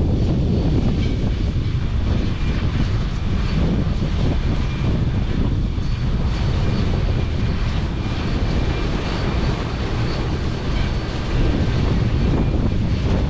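International 1460 axial-flow combine running steadily while harvesting, a dense low machinery rumble with a faint high whine over it.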